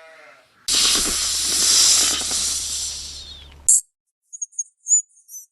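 An animal's long, loud hiss starts suddenly about a second in and fades away over about three seconds. A short sharp sound follows, then a few quick high chirps near the end.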